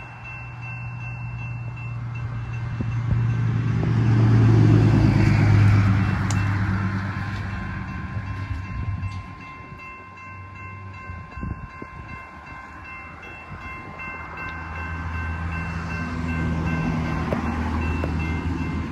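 CSX freight train of autorack cars rolling past: a steady rumble of wheels on rail with thin, steady high squeals over it. It is loudest about four to six seconds in, eases off in the middle and builds again near the end.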